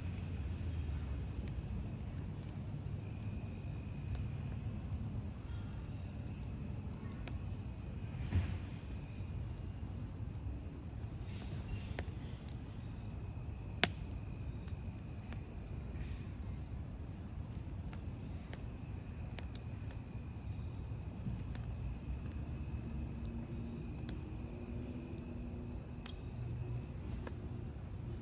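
Crickets chirping steadily over the low rumble of a wood campfire, with occasional sharp crackles from the burning logs, the loudest pops about 8 and 14 seconds in.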